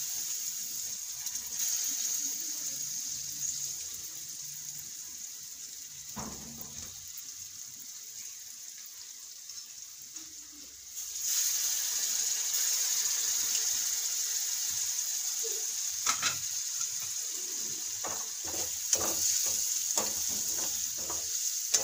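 Green chillies sizzling in hot oil in an aluminium karahi, the sizzle growing louder about halfway through as lemon juice is squeezed into the hot pan. Over the last few seconds a slotted metal spatula scrapes and knocks against the pan as the mix is stirred.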